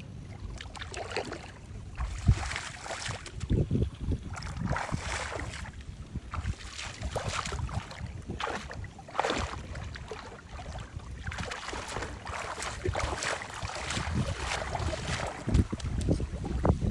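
Water sloshing and splashing in uneven swishes, with wind buffeting the microphone.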